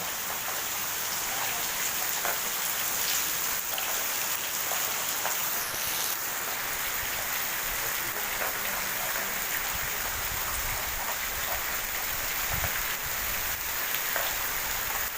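Steady rain falling, an even hiss with scattered individual drop hits. A low rumble comes in about two-thirds of the way through.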